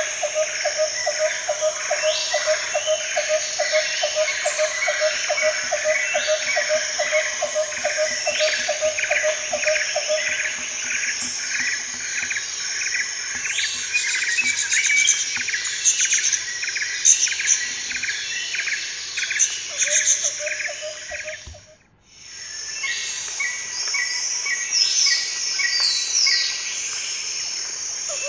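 Forest ambience of many birds calling and insects chirping, with a low pulsing call that repeats about three times a second through the first ten seconds. The whole sound fades out briefly about 22 seconds in and then comes back.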